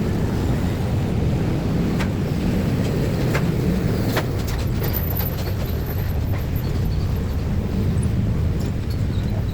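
Steady low rumble of vehicles passing at a railway level crossing, with a few sharp clicks.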